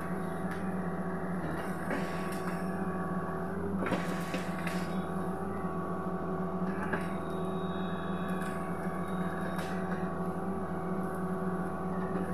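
Sany SY75C excavator's diesel engine running steadily, with a few short knocks and cracks scattered through it.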